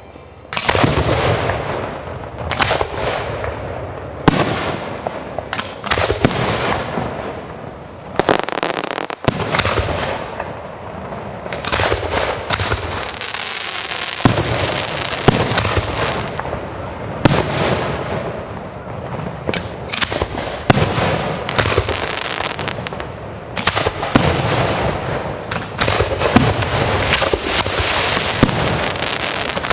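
Fireworks display: a dense, almost unbroken barrage of booming shell bursts with crackle between them, starting suddenly about a second in.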